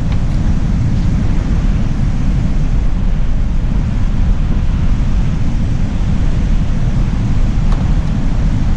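Steady wind buffeting the microphone, a loud low rumble, with beach surf washing behind it and a few faint clicks.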